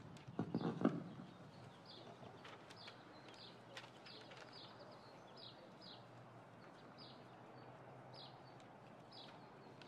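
A few knocks in the first second, then a bird repeating a short, falling high chirp more than once a second, faint over quiet outdoor background noise.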